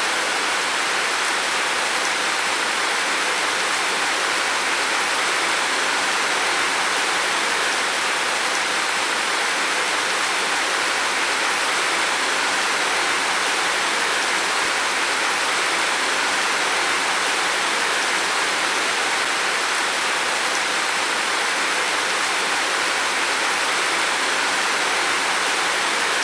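Heavy rain falling on a roof, a steady, even hiss of water with no breaks or separate drops standing out.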